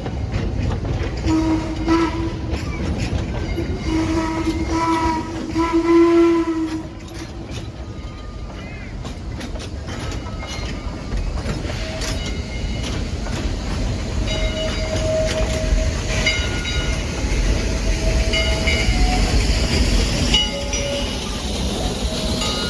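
A narrow-gauge logging locomotive's whistle sounds three blasts, the last the loudest. The train then runs on with a low rumble, clanking and intermittent high squeals.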